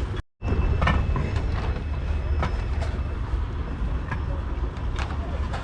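Steam traction engine running, a steady low rumble with scattered clicks and knocks, after a brief cut-out of the sound near the start.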